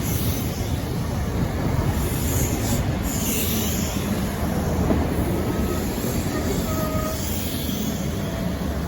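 Heritage diesel-hauled train running on the line, a steady heavy low rumble, with a brief high-pitched squeal about three seconds in.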